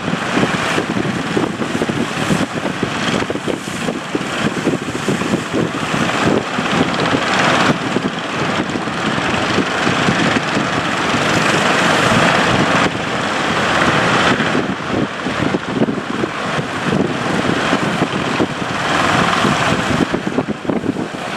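Boat engine running steadily at sea, half buried under heavy wind on the microphone, with a louder rush of wind and water swelling up every five or six seconds.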